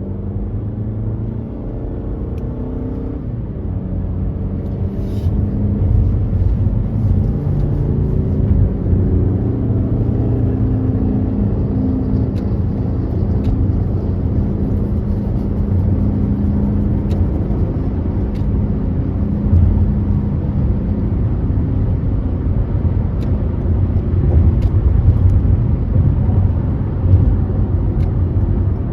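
Car driving at speed: a steady low rumble of road and engine noise, with an engine note that drifts up and down through much of it and a few faint ticks.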